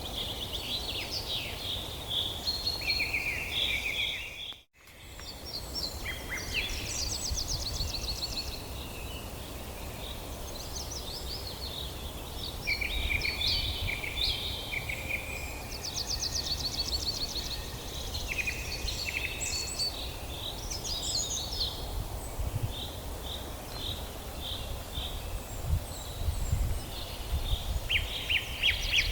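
Several songbirds chirping and trilling in quick overlapping phrases, over a steady low outdoor rumble. The whole sound cuts out for a moment about five seconds in.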